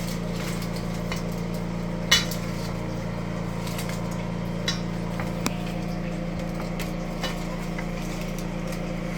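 A few scattered sharp clinks of kitchen utensils over a steady low hum, the loudest clink about two seconds in.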